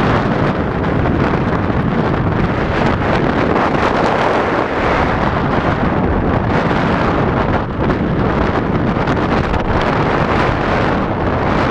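Strong storm wind blowing hard across the microphone in a loud, steady rush.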